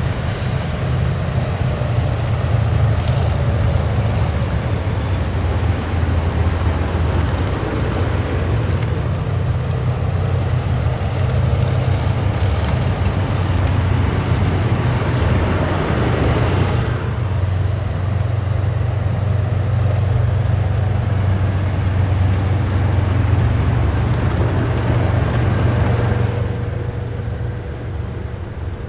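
Column of heavy military vehicles driving past, with a steady deep engine rumble and road noise throughout. The higher noise thins about two-thirds of the way through, and the whole sound eases near the end as the vehicles move away.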